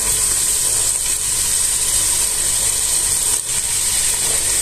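Steady sizzling of chicken and chopped vegetables frying in oil in a steel pot.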